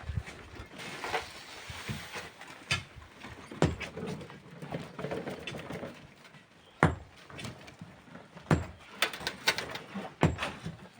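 Irregular sharp knocks and scrapes of hand tools working sand and stone, about nine clear strikes spaced unevenly, a few close together near the end.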